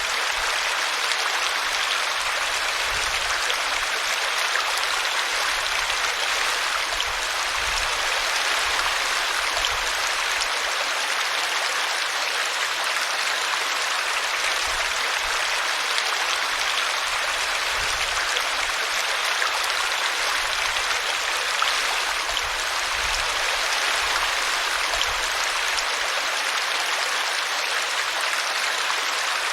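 Small woodland brook running over a tree root: a steady babble and rush of water with no change in level.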